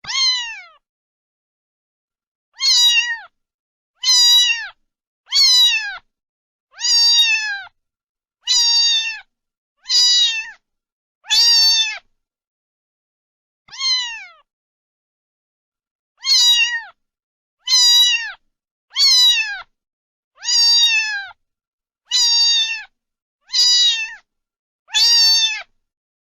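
A cat meowing over and over, about sixteen short meows roughly every second and a half, each falling in pitch, with a longer pause about halfway through.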